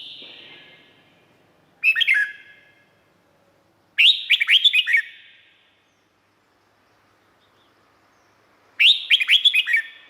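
Red-whiskered bulbul singing: three short phrases of quick, down-slurred whistled notes, the second and third longer than the first, with a softer call right at the start.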